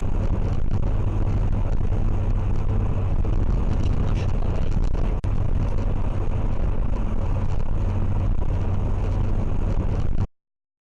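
Steady low rumble of a vehicle's engine and road noise, as picked up by a dash camera in a moving car. It drops out for an instant about halfway through and cuts off suddenly just before the end.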